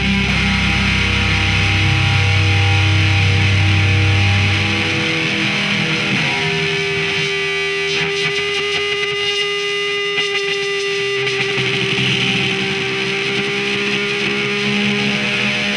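Heavily distorted electric guitar music. The low bass end drops out about five seconds in, leaving long sustained, ringing guitar notes.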